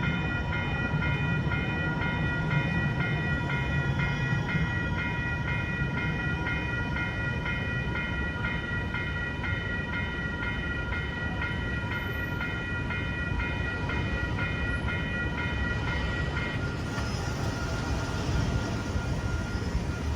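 Railroad crossing bells ringing in a rapid, even rhythm over the low rumble of an MTS trolley (light-rail tram) at the crossing. The bells stop about three-quarters of the way through, while the rumble carries on.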